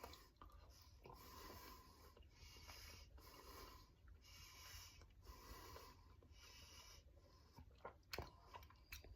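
Near silence, with faint breaths, a soft puff about once a second, and a few small clicks near the end.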